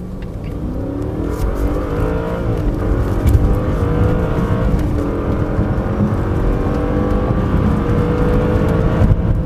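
Audi A8's 4.2-litre V8 at full throttle, accelerating hard with the automatic gearbox in S (sport) mode. The engine note climbs steadily, drops at quick upshifts about two and a half and five seconds in, then climbs slowly and grows louder.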